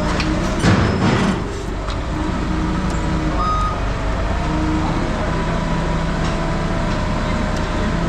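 Diesel engine of heavy yard equipment running steadily, with a loud crash about a second in, and a single reversing beep about three and a half seconds in.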